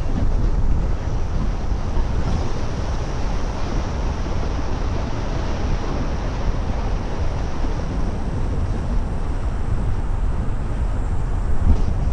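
Steady road, tyre and wind noise from a car driving along, heaviest in the low end, with no clear engine note.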